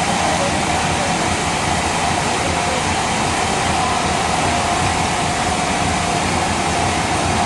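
Sawmill machinery running steadily, a continuous loud mechanical noise with a high, slightly wavering whine.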